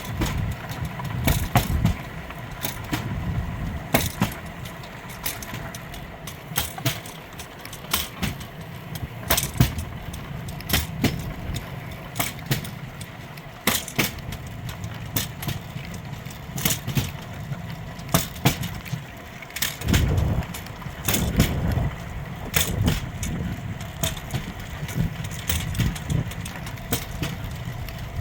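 Steel wheels of a pedal rail bike rolling along old railway track: a steady low rumble with sharp clacks every second or so as the wheels cross rail joints.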